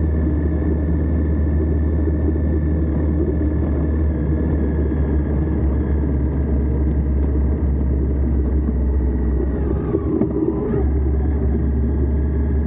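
Indian Scout V-twin motorcycle engine running steadily under way, heard close from a camera on the lower crash bar, with wind and road noise. About ten seconds in, the note briefly dips and changes, then settles back to the same steady drone.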